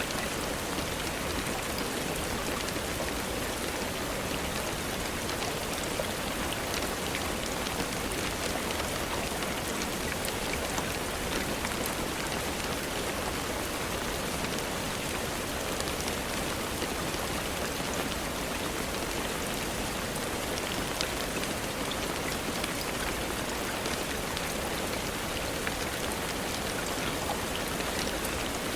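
Steady rainfall, an even hiss with drops pattering, with scattered faint sharp crackles of a wood fire.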